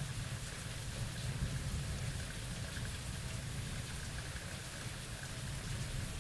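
Steady heavy rain falling, with a continuous low rumble underneath from the storm.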